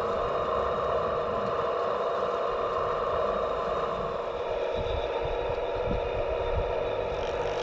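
Steady whine of a radio-controlled scale construction model's electric motor and hydraulic pump running. Low knocks and rumbles come in after about four seconds.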